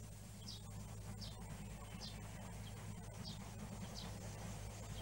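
A bird repeating a short, high call that slides downward, roughly once a second, faint over a steady low hum and occasional clicks.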